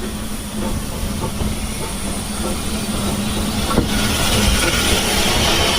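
Railway train running with a steady low rumble and hum, growing gradually louder, with a hiss that builds in the second half and a single sharp click nearly four seconds in.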